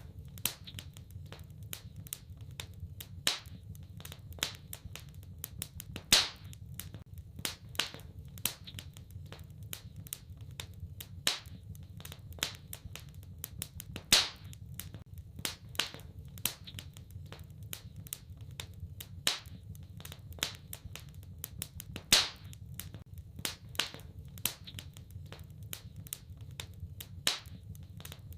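Wood fire crackling in a fireplace: a constant irregular patter of small snaps, with a louder pop every several seconds, over a faint steady low rumble.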